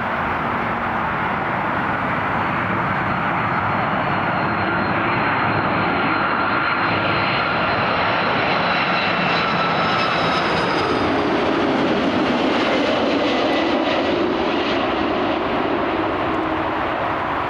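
Airliner's engines passing close, a steady loud rush that swells to a peak about two-thirds of the way through. High whining tones in it slowly fall in pitch as the plane goes by.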